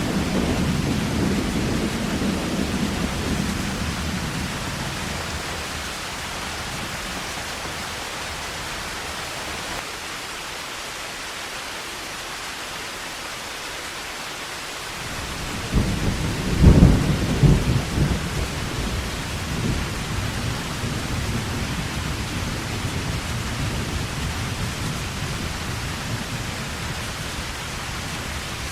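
Heavy rain falling steadily, with thunder: a low rumble dying away over the first few seconds, then a loud thunderclap a little past halfway that rolls on for a few seconds.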